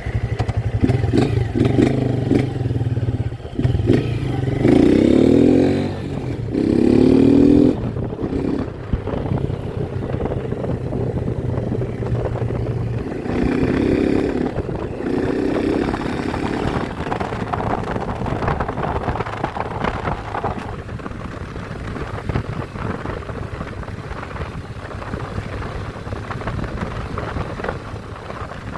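Honda Titan 160 single-cylinder motorcycle engine running steadily and revved hard in short blips, about four times in the first half. The engine pitch then fades into a steady rushing noise.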